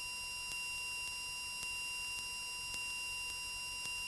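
Steady electrical whine on the cockpit intercom audio, several high tones held without change, with a faint tick about twice a second.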